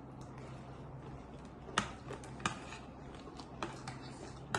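Eating sounds of chatpate being eaten from a plate: a handful of short, sharp clicks and clinks, most of them in the second half, over a faint steady hum.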